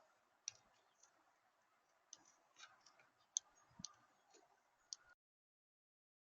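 Near silence with faint, irregular ticks and clicks over a light background hiss, cutting out to dead silence about five seconds in.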